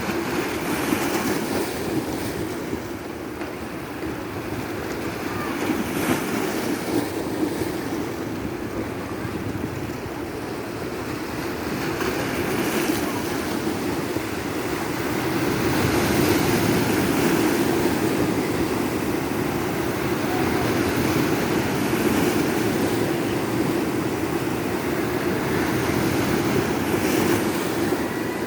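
Sea waves breaking and washing onto a beach: a continuous rushing surf that slowly swells and eases, loudest in the second half.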